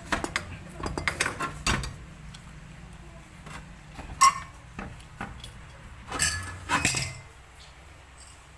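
Metal tools and parts clinking and tapping in short clusters, with one sharp ringing clink about four seconds in.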